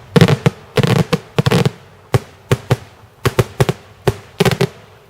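Daytime fireworks going off in a rapid, irregular barrage of loud, sharp bangs, some in quick crackling clusters, with hardly a break between them.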